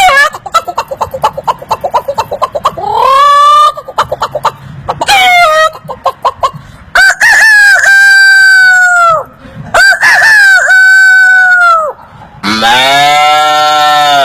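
A man imitating farm fowl with his mouth: rapid hen-like clucking, then two long rooster crows. A lower, longer animal call follows near the end.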